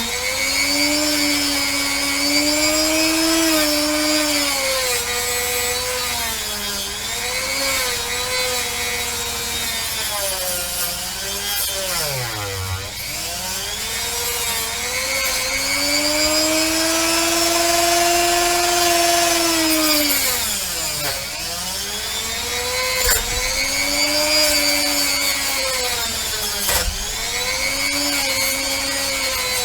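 Handheld rotary tool running and grinding on a pewter cast. Its motor whine keeps dipping and rising in pitch as the bit is pressed into the metal and eased off, with two deep drops about 12 and 21 seconds in.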